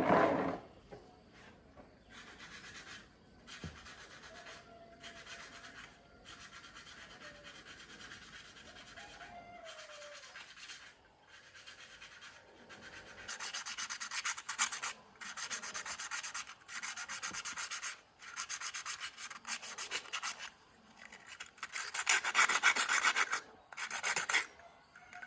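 Repeated hand rubbing strokes against a hard surface, roughly one a second, louder in the second half with a short pause near the end.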